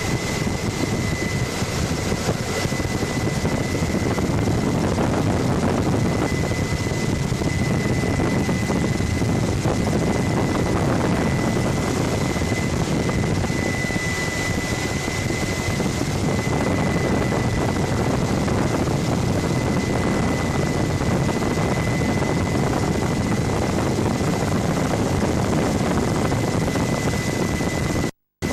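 Helicopter engine and rotor noise heard from aboard the helicopter: a loud, steady rumble with a constant high whine over it. It cuts out for a moment near the end.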